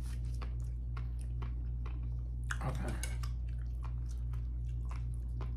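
A person chewing raw fish sashimi close to the microphone: steady wet chewing with many small mouth clicks, over a steady low hum.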